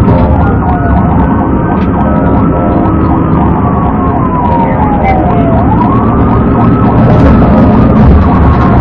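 Police car sirens in a slow wail, the pitch falling and rising over a few seconds, more than one siren overlapping, over loud road and engine rumble.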